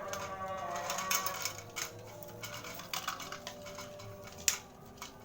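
Scattered light taps and clicks, with one sharper click about four and a half seconds in; a held tone fades out in the first second.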